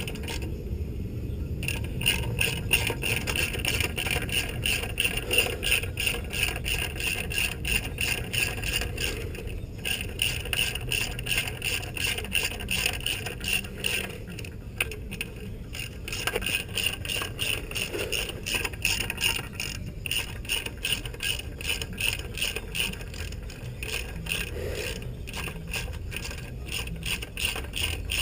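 Hand ratchet wrench clicking in quick, even strokes as a screw is run in on a motorcycle footpeg (rearset) bracket, with a few short pauses.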